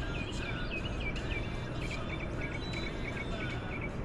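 Birds chirping: strings of short, quick high notes repeating over a steady low background noise.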